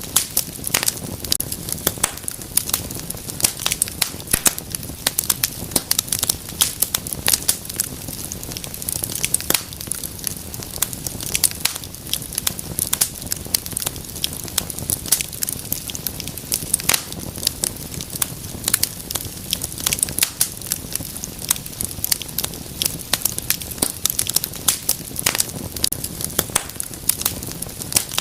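Wood fire crackling steadily, with many sharp irregular pops and snaps over a soft low rumble of flame.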